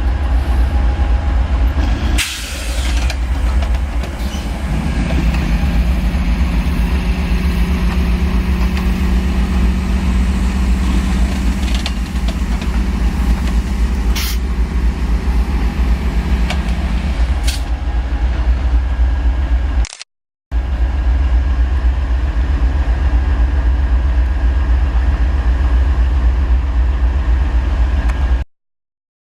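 Heavy low rumble of a passing train, with a steady diesel locomotive engine note for about twelve seconds in the middle. The sound breaks off briefly twice, and stops shortly before the end.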